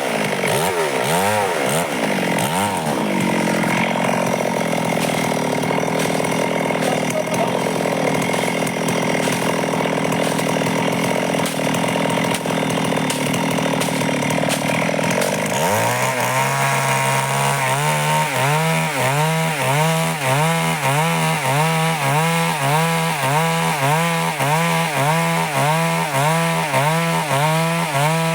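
Stihl chainsaw cutting wood lengthwise into boards. The engine wavers at first, then holds a high steady pitch; about halfway through, the note drops and rises and falls about once a second as it labours in the cut.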